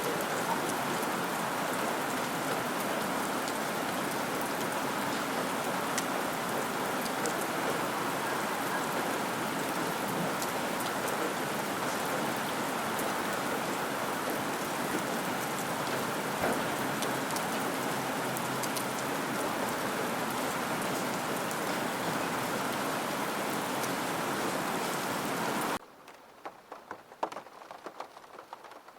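Steady heavy rain with many drops pattering. About 26 seconds in it cuts off abruptly to a much quieter background of scattered single drips.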